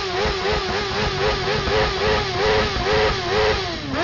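Motorcycle engine revved hard and held near the top of its revs, the pitch wobbling up and down about three times a second as the throttle is worked. Near the end it drops briefly and is revved straight back up. This is a flat-out rev for a sound-level measurement, which reads about 122 decibels.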